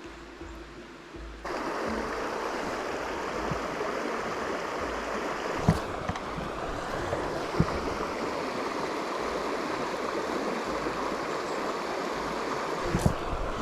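Small stream's water running, a steady rushing that starts abruptly about a second and a half in, with a few brief knocks.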